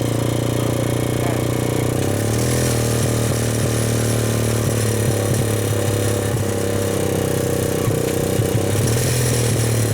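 Four-stroke motorcycle engine running steadily under way, its note shifting slightly about two seconds in.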